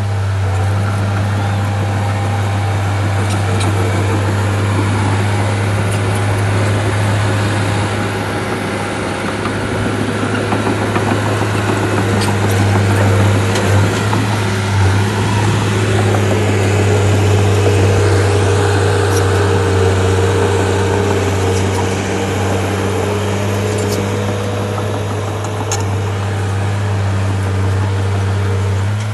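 Heavy diesel engine of a Shantui bulldozer running steadily at constant speed, swelling slightly in the middle, with a few faint clicks.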